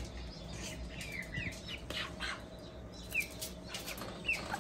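Young chickens peeping: scattered short, high chirps that rise and fall quickly in pitch, a few each second.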